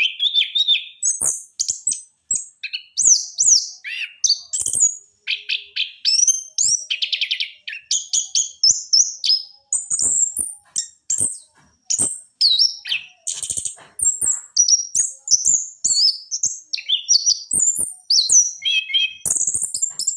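Chestnut-capped thrush (anis kembang) singing a continuous, rolling run of rapid, varied whistled phrases with only brief pauses.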